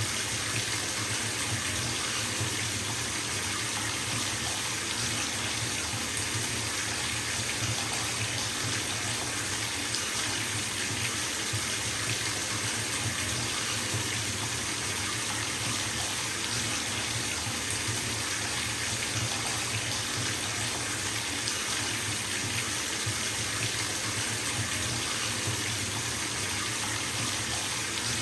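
Bathtub filling from the tap: a steady stream of water splashing into the tub, even and unchanging.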